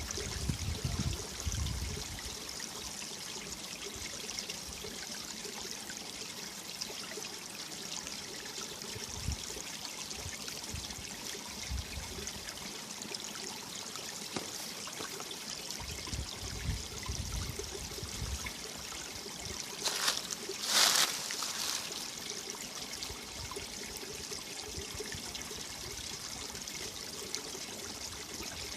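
Mountain valley stream running and trickling over rocks in a steady hiss, with a brief louder surge about two-thirds of the way through.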